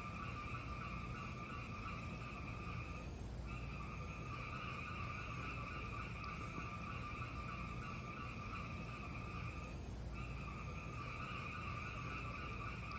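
Fireplace fire burning with a steady low rumble and hiss and few distinct crackles; the hiss dips briefly twice, about three and ten seconds in.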